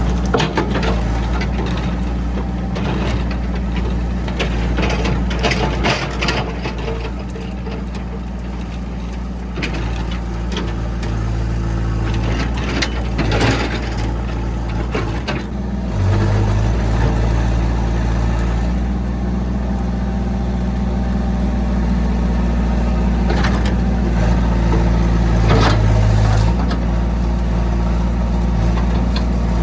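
Diesel engine of a compact excavator running steadily while it works, with its hydraulics under load and the bucket clanking and scraping. The engine picks up about halfway through and stays higher.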